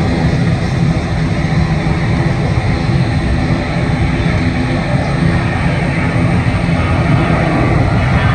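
Boeing 737 jet engines running steadily: a loud, even rumble with a steady hum, neither rising nor falling.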